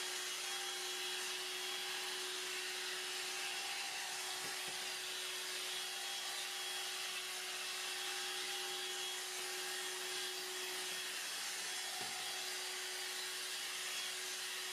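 Hoover Air Cordless 20V lithium-ion handheld vacuum running steadily: a constant motor tone over the rush of suction air, not high-pitched.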